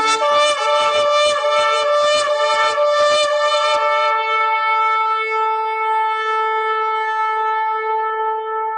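Ram's-horn shofar blowing. Rapid broken blasts for about the first four seconds, then one long steady held note.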